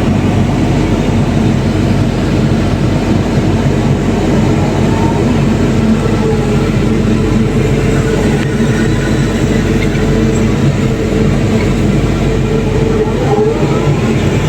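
Heavy diesel machinery running loud and steady, with a faint wavering whine over the engine from about halfway through.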